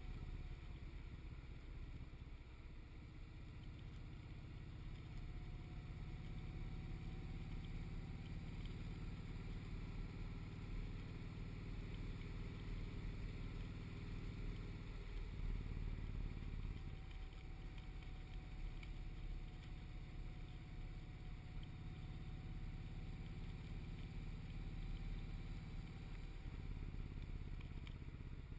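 V-twin cruiser motorcycle engine running steadily while riding. Its note changes briefly about halfway through and again near the end.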